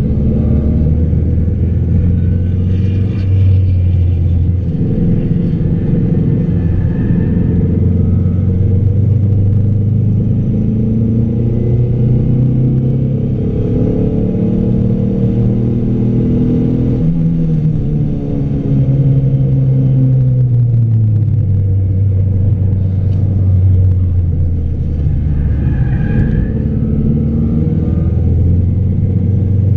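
A car's engine, heard from inside the cabin while being driven hard, over steady low tyre and road rumble. The engine note climbs steadily, falls back about halfway through, then climbs again.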